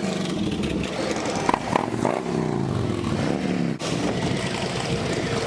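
A vehicle engine running, its pitch sliding up and down a couple of seconds in, over steady outdoor background noise.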